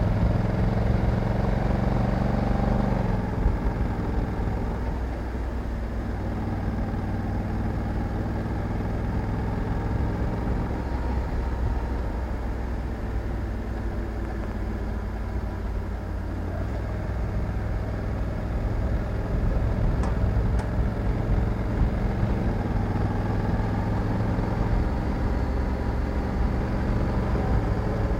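Honda Africa Twin 1100 DCT's parallel-twin engine running under way, loud for the first few seconds, easing off, then building up again past the halfway point.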